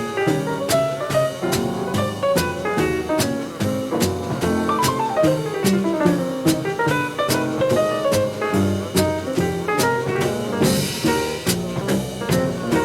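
Live jazz quintet of piano, vibraphone, guitar, double bass and drums playing a swing tune, with a steady beat on the drum kit and a cymbal crash a little before the end.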